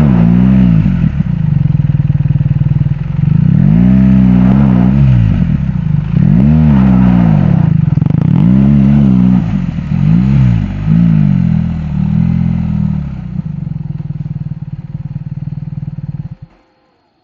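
BMW R 1300 GS Adventure's boxer-twin engine revving up and down in repeated surges under load as the bike fights for traction up a steep, loose sandy slope. The surges ease off and the engine noise fades, then cuts off suddenly near the end.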